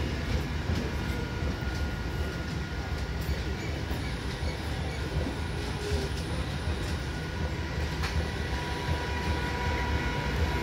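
Eastern Railway electric multiple-unit local train rolling past on the track: a steady rumble of steel wheels on the rails, with an occasional click and faint thin high whines near the start and again near the end.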